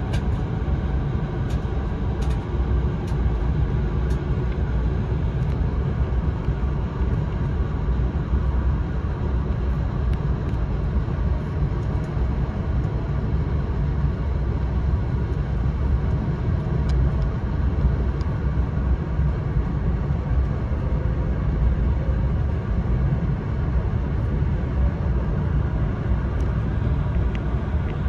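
E4 series Max double-deck Shinkansen running at speed, heard from on board as a steady low rumble of train running noise.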